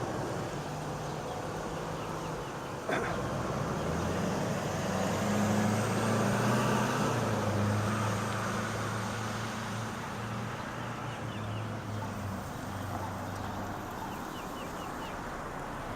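A road vehicle's engine hum and tyre noise passing by, swelling over a few seconds and fading again, with a single sharp click a few seconds in.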